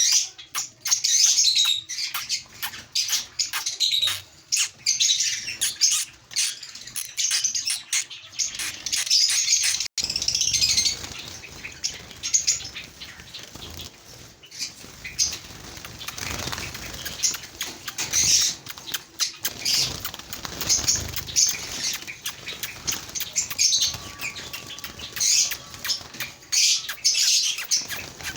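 A group of caged small birds, lovebirds and Java finches, chirping constantly in many quick high calls, with wings fluttering against the cage.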